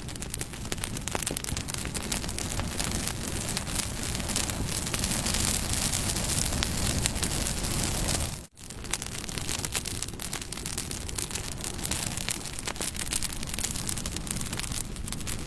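Wood campfire burning with a steady crackle and many small pops. The sound cuts out for a split second a little past halfway through, then carries on.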